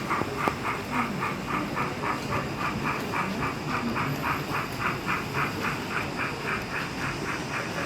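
Sound-fitted model steam locomotive chuffing steadily from its loudspeaker, about four chuffs a second.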